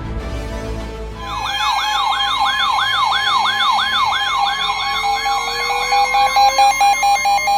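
Electronic siren-style alert tone, sounding as a new warning comes in. After a fading bit of music, a rapid yelping tone starts about a second in, sweeping up and down three or four times a second over steady tones. Near the end it turns into fast pulsing beeps with a slowly rising tone underneath.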